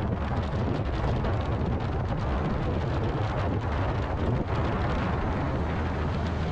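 Wind buffeting the microphone on a moving motorbike, a steady low rumble with the bike's engine running underneath.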